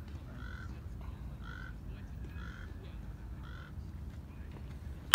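A bird calling over and over, short calls about once a second, over a low steady background rumble. Right at the end, a single sharp smack as a pitched baseball reaches home plate.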